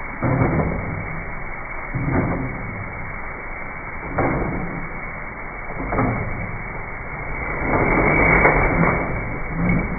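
Electric drain-cleaning machine running a rotating wire cable through a drain pipe. A steady churning noise swells about every two seconds.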